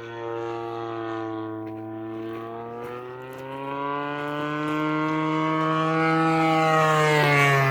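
DLE 55cc single-cylinder two-stroke gas engine of an RC airplane running in flight. It grows louder and higher-pitched as the plane approaches, then its pitch drops as it passes close by near the end.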